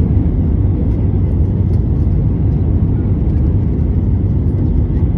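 Passenger jet landing, heard from on board: a loud, steady low rumble of engines and airflow.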